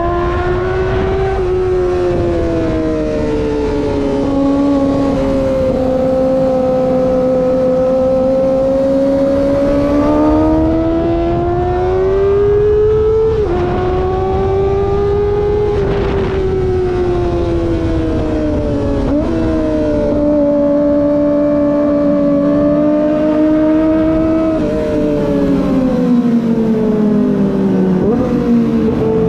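Kawasaki ZX25R's high-revving 250 cc inline-four engine under way, its pitch rising and falling with the throttle and dropping sharply twice at upshifts. A low rushing noise runs underneath.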